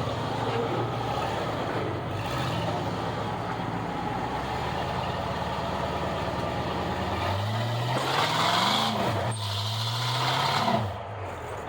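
Off-road vehicle engine running steadily, then revving up and dropping back twice over the last few seconds.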